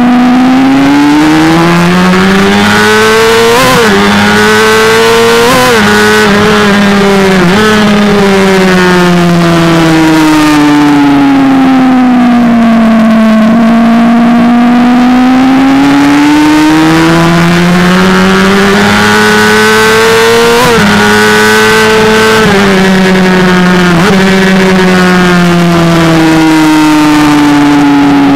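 Honda CBR600RR's inline-four engine under hard acceleration on a race track, its pitch climbing and snapping down at quick upshifts, three in the first eight seconds and two more a little past twenty seconds. Between them the revs sink slowly to a low point about halfway through and build again, over steady wind rush.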